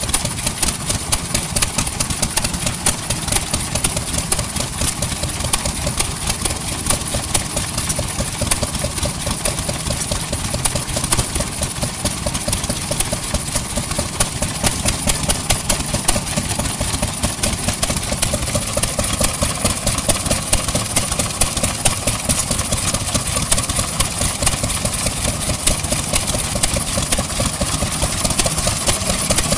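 Vintage engine running steadily at idle, with a quick, even beat of firing strokes that does not change.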